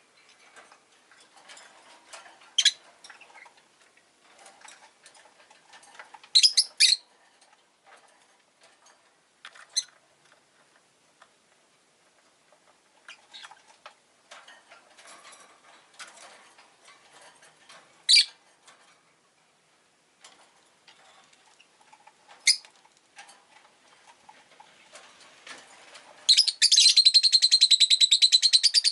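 Rosy-faced lovebird giving single sharp, high chirps every few seconds, with faint ticking in between. Near the end it breaks into a loud, rapid run of repeated chirps.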